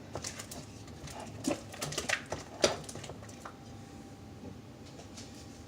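Homemade glue slime being stirred in a bowl: irregular sticky squelches, snaps and light clicks as the thickening slime pulls away from the bowl's sides.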